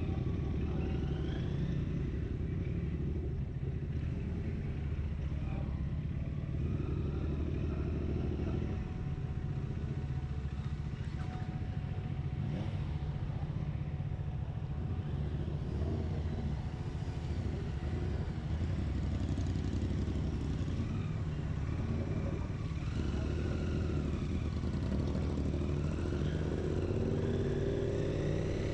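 Triumph Speed 400's single-cylinder engine running at a steady pace while the motorcycle is ridden, heard from on the bike.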